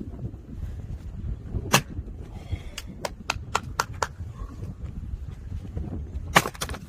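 Axe splitting firewood: two sharp strikes, one about two seconds in and a heavier one near the end, with several lighter knocks in between.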